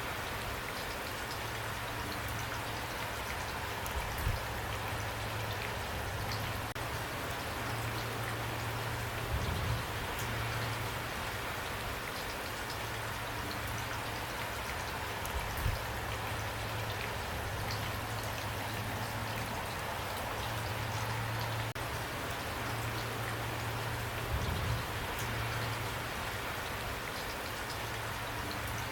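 Steady rain falling on a roof, an even hiss with scattered individual drops ticking. A few louder thumps stand out, about four in all.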